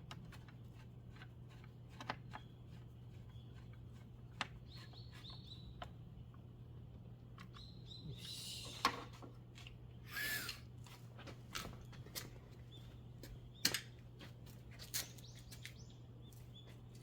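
Scattered light clicks and knocks, with two short rustling scrapes in the middle and faint high bird chirps over a steady low hum.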